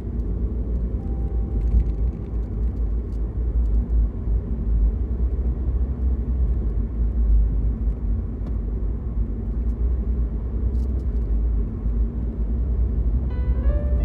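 Steady low rumble of a car driving, road and engine noise heard from inside the moving car.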